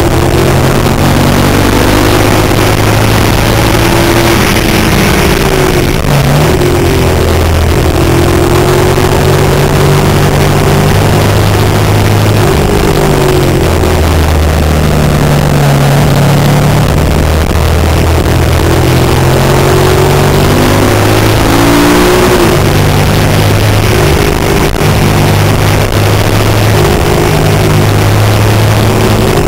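Suzuki SV650's 90-degree V-twin engine pulling hard on track, its pitch climbing and dropping several times as the rider accelerates, shifts and slows for corners, under steady wind rush.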